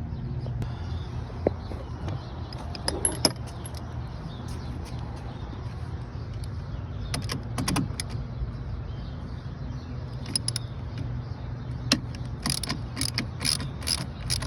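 Light metallic clinks and clicks of hand tools and engine-bay parts being handled, coming in small clusters, loudest near the end. A steady low hum runs underneath.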